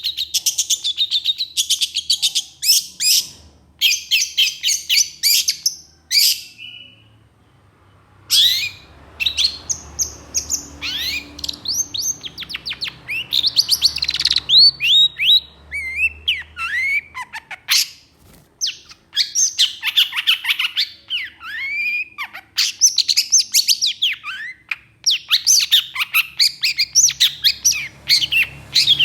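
Long-tailed shrike (cendet) singing excitedly: rapid harsh chattering bursts and trills mixed with short downward-sweeping whistled notes, broken by brief pauses.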